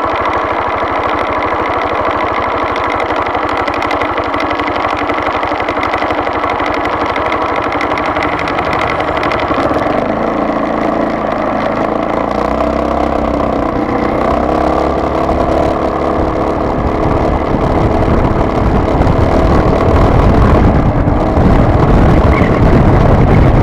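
A vehicle's engine running on the move, steady at first, then rising in pitch about halfway through as it speeds up. A low rumble of wind or road noise grows louder toward the end.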